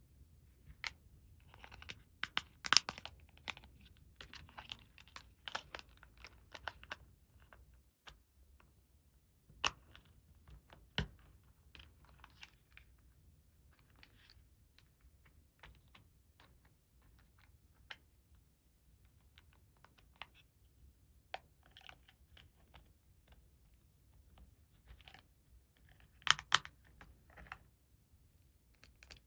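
Hands unboxing and handling small plastic toy pieces: irregular clicks and taps with short bursts of crinkling packaging. They are busiest in the first few seconds, sparse in the middle, and there is a sharp cluster of clicks near the end.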